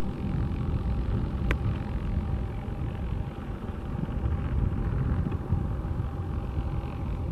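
Distant jet engines, heard as a steady low rumble with a faint steady whine, and a single sharp click about a second and a half in.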